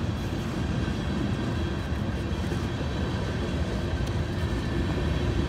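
Train passing, a steady low rumble.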